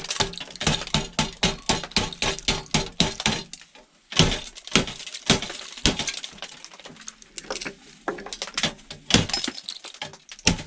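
Rapid repeated blows on a coffee machine's glass window, about five a second, then after a short pause heavier separate strikes as the safety glass breaks up, with crackling and clinking of the small glass pieces.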